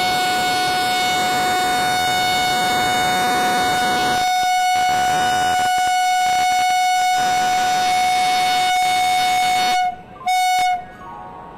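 Train air horn sounding one long steady blast of about ten seconds, then a short second blast after a brief break near the end, as the train readies to depart.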